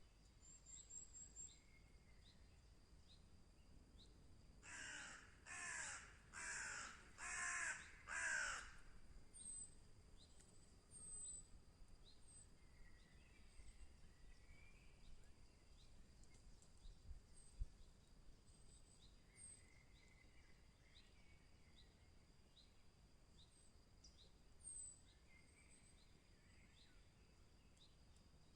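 A bird gives five harsh calls in quick succession about five seconds in, the loudest sounds here. Thin, high chirps from small birds come and go over a faint, steady high whine.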